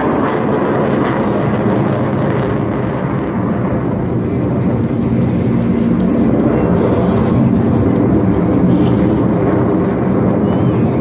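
Aircraft flying past, its engine noise loud and steady and swelling slightly about halfway through.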